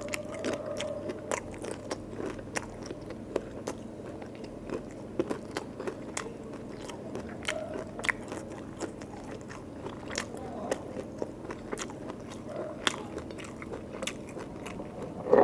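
A person eating curry and rice close to the microphone: wet chewing with many irregular sharp mouth clicks and occasional crunches.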